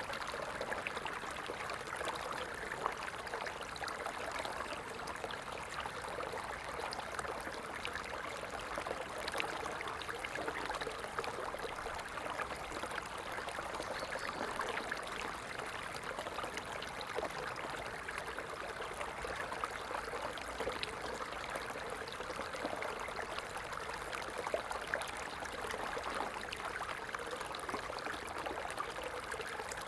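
A stream flowing: a steady rush of water dotted with many small splashes.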